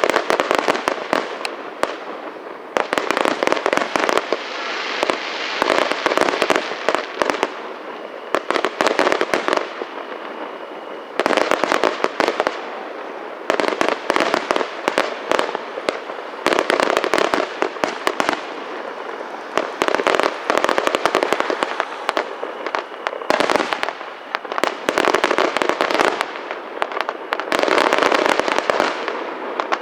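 Aerial fireworks display: rapid volleys of bangs from bursting shells come in dense clusters, with short lulls between them.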